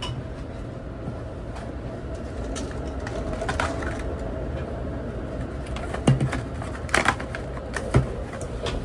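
Steady low rumble of a moving passenger train, with a few sharp clinks and knocks about six, seven and eight seconds in as drinks are made at the café counter.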